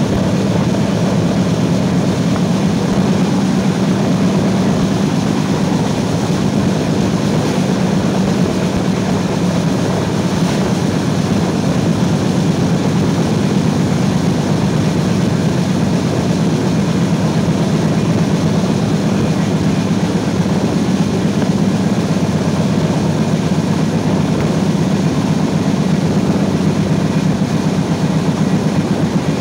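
Passenger train running at high speed, heard from an open carriage window: a steady, loud rush and rumble of wheels on rails and passing air.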